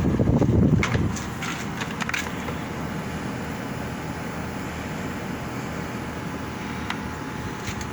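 Air-conditioning unit running with a steady, even hum and hiss. Wind buffets the microphone for about the first second, and a few light clicks sound over the hum.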